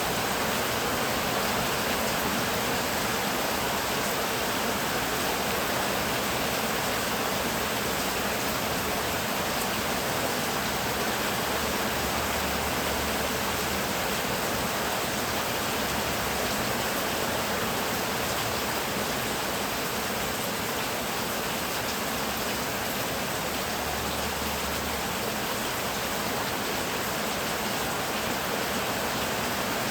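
Heavy rain falling steadily, an even hiss and patter with no thunderclap.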